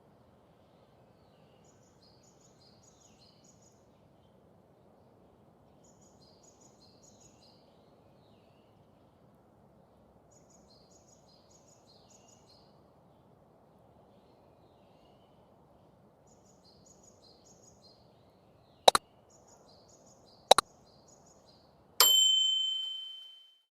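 Faint steady background with short runs of high bird chirps every few seconds. Near the end come two sharp clicks, then a loud, bright bell-like ding that rings and fades away.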